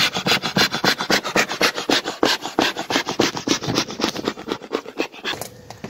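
Rapid scraping strokes, about eight a second, easing off near the end.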